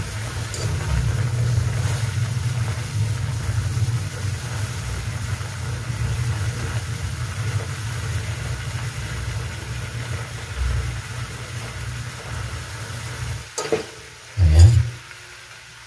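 Longganisa sausages sizzling in a wok, frying in the fat rendered out of them as their cooking water boils off, with a metal spoon stirring and scraping at times over a low steady hum. The sizzle drops off sharply near the end, followed by a brief dull thump.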